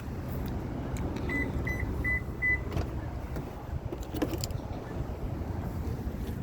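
Four short electronic beeps at one high pitch about a second in, with a few clicks and knocks, over a low steady rumble.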